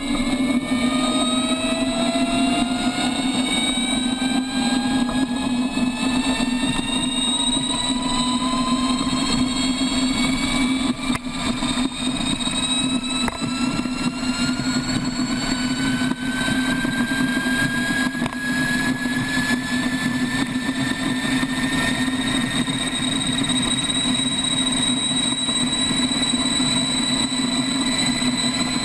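A large engine running, with a whine that climbs slowly and steadily in pitch over a steady low drone.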